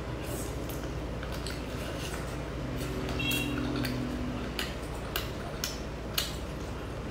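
Close-up eating sounds: a person chewing giant prawn meat, with scattered short wet clicks and smacks of the mouth and of the food in the fingers.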